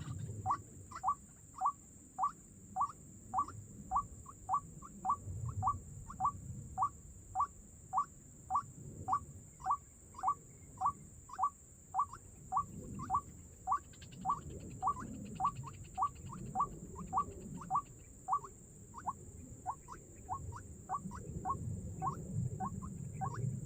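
White-breasted waterhen call, the monotonous waterhen call used as a trapping lure: short notes repeated very evenly, about two a second, with low rustling and rumbling underneath.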